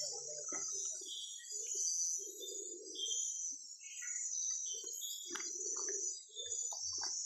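Steady, high-pitched chorus of night insects in tropical rainforest, with scattered short chirps over it and faint, irregular low sounds underneath.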